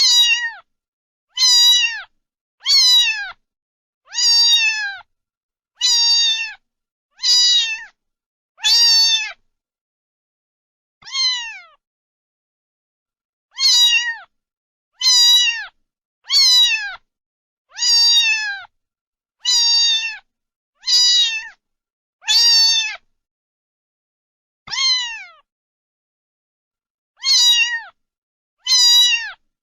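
Domestic cat meowing over and over: high-pitched meows that each fall in pitch, coming about every second and a half. Twice there is a pause of a few seconds, and between calls there is dead silence.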